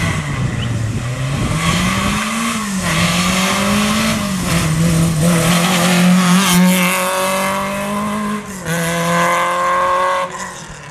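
Small Peugeot 104 rally car's engine revving hard under acceleration, its pitch climbing and dropping several times through the gears, with a sharp drop near the end.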